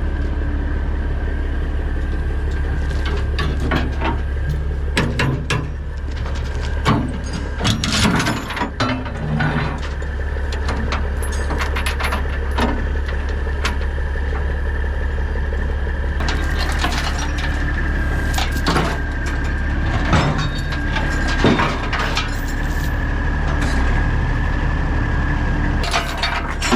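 Heavy diesel engine running steadily with a steady high whine, while metal clanks and knocks sound irregularly over it.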